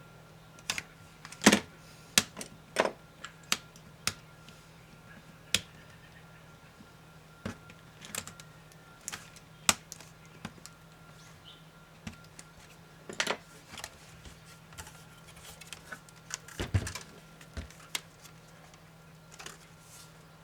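Irregular clicks and taps of small tools and laptop parts being handled during disassembly, the loudest about a second and a half in, over a faint steady low hum.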